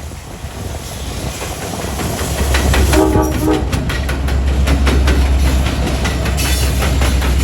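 Train approaching and passing close by, growing louder, with a short horn blast about three seconds in, then a steady low rumble and the wheels clattering rhythmically over the rail joints.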